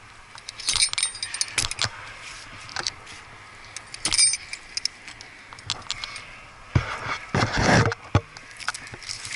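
Small pieces of metal hardware clinking and jangling in short irregular bursts. A rougher rustling, scraping noise comes about seven seconds in.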